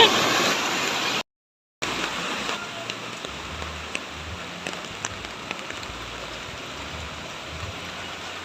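Steady heavy rain falling, with scattered drops ticking close by. It opens with a second of louder rushing water and a short dead gap from an edit cut.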